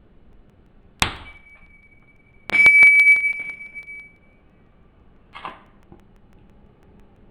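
Metal parts or tools knocked together on a workbench: one sharp clink about a second in, then a quick cluster of knocks, each leaving a high ringing note that dies away over a second or two. A softer short scrape follows near the end.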